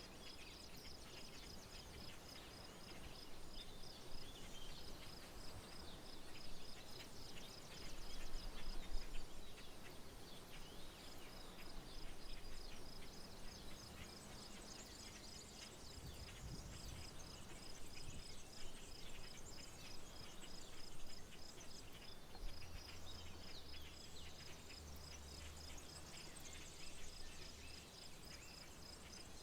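Rural wetland ambience: a high, evenly pulsed insect chirping that stops briefly a few times, scattered bird calls, and a low background rumble.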